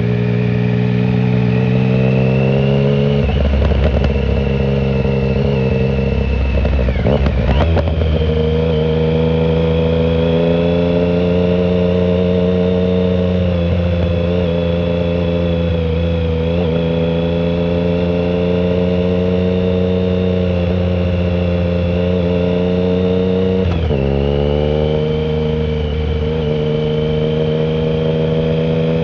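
2009 Triumph Speed Triple 1050's inline three-cylinder engine, breathing through a shorty Competition Werkes exhaust without its silencer, under way on the road. The engine pitch climbs, breaks briefly a couple of times, holds fairly steady for a long stretch, then dips and climbs again near the end.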